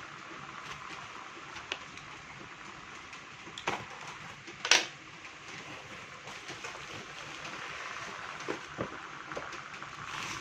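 Plastic courier parcel being opened by hand: scattered crinkling with a few sharp snaps, the loudest about halfway through and two smaller ones near the end, over a steady hiss.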